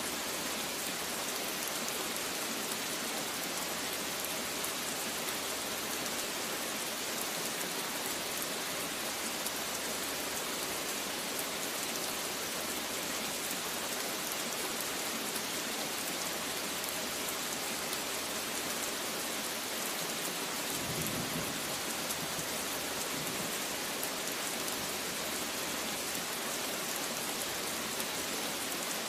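Steady rain falling, a dense even hiss of drops, with a low rumble of thunder rising briefly about two-thirds of the way through.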